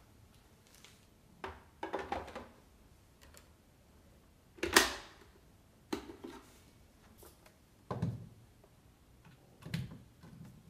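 A series of about six separate knocks and clatters, as of hard objects being handled and set down, the loudest a little before halfway.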